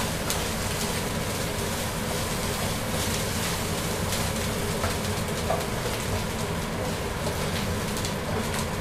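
Pounded lemongrass, galangal and garlic sizzling steadily in hot oil in a pan, over the steady drone of a kitchen range-hood fan, with a few faint clicks.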